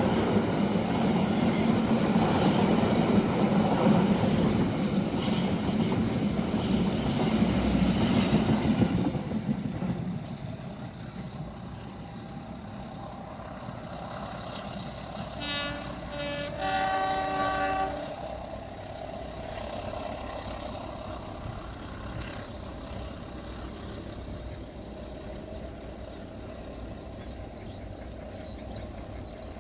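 Indonesian diesel-hauled train passing close by, its wheels rumbling and clacking on the rails, then fading away about nine seconds in. Around the middle a locomotive horn sounds two blasts, the second one longer.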